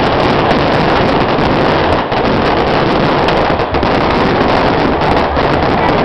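Fireworks going off in a dense, continuous barrage of crackling and popping, loud and unbroken.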